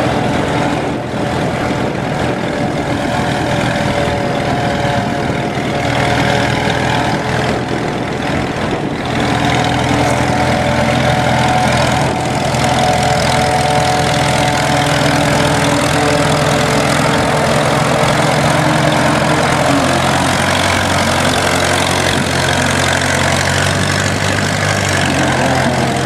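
1926 Fordson tractor's four-cylinder engine running steadily on kerosene, with magneto and buzz-coil ignition, getting a little louder about ten seconds in.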